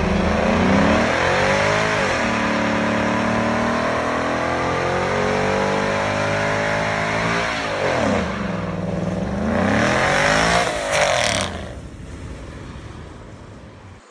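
Ford Mustang V8 doing a burnout: the engine revved hard and held high with the rear tyres spinning, the revs dropping about eight seconds in, climbing again and then falling away near the end.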